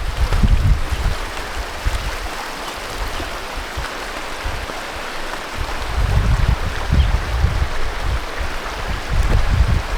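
Steady rushing of flowing water, with wind buffeting the microphone in low gusts at the start and again from about six seconds in.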